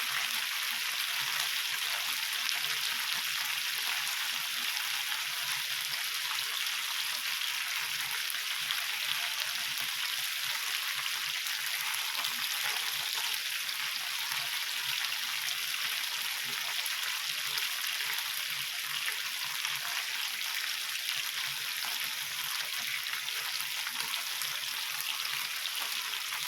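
Chicken kebabs sizzling on an indoor grill: a steady hiss and crackle of meat cooking in fat and oil.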